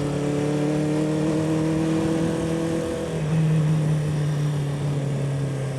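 1976 Honda 400/4's four-cylinder engine running under way, its note rising slowly, then stepping down to a lower, steady note about three seconds in.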